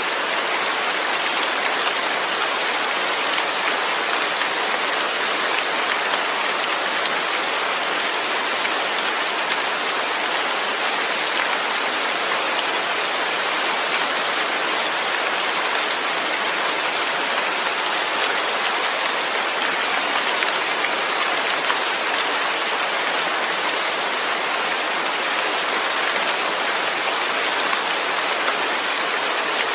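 Steady rainfall, an even hiss of rain with no gusts or single drops standing out.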